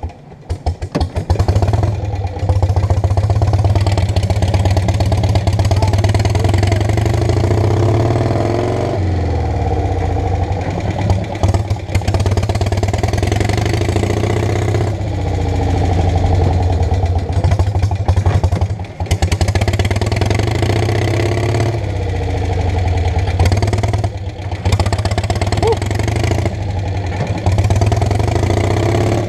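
Donnet Zedel prototype's engine running while the car drives along. The engine note drops away sharply right at the start, then comes back, dipping and picking up again several times.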